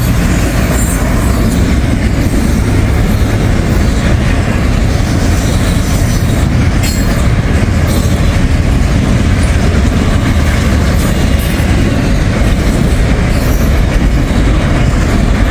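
Intermodal freight train's container cars rolling past close by, a loud, steady rumble of wheels on rail.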